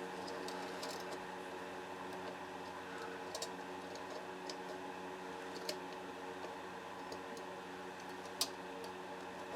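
A few faint metallic clicks of a Vz.50 pistol magazine's spring and follower being pressed down into the magazine body, the clearest near the end, over a steady low hum.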